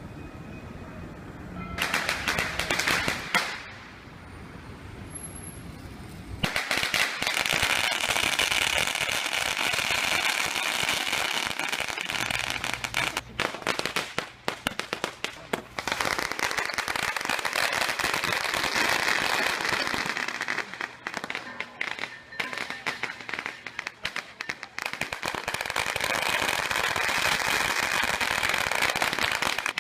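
Strings of firecrackers going off in a dense, rapid crackle. There is a short burst about two seconds in, then near-continuous popping from about six seconds on, which breaks into scattered bangs for a few seconds in the middle before thickening again.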